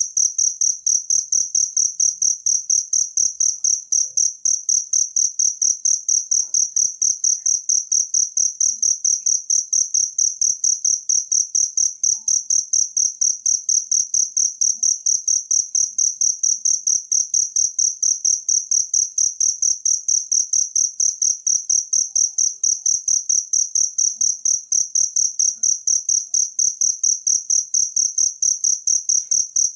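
Cricket chirping loudly in a fast, even, unbroken rhythm of high-pitched pulses.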